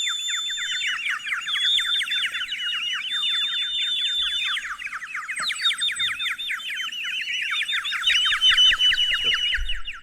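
Small birds chirping and chattering in a dense, rapid stream of short high calls, with a few longer whistled notes mixed in.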